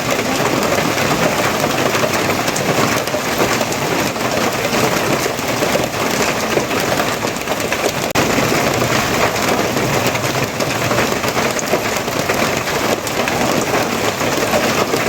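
Steady heavy rain: an even, continuous hiss with dense patter of drops.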